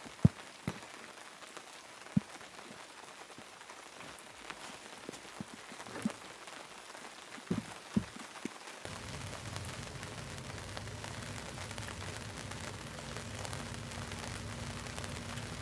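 Steady rain falling, with single heavy drops striking close by now and then. About nine seconds in, a steady low hum comes in under the rain.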